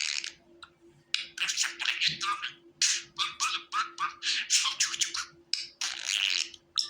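Budgerigar warbling: a fast, scratchy chatter of short chirps and clicks, with a brief pause under a second in. A faint steady hum runs underneath.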